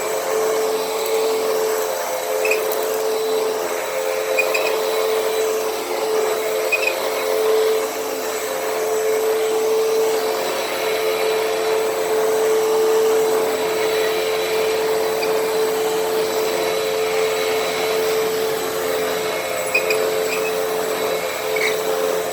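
Hoover WindTunnel T-Series upright vacuum running over carpet: a steady motor whine over a broad rushing hiss, with a few faint ticks scattered through.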